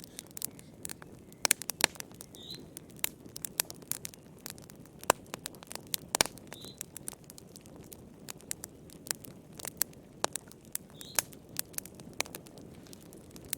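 Wood fire crackling in a fireplace: sharp, irregular pops and snaps over a low steady hiss of burning. A short, faint, high chirp comes back about every four seconds.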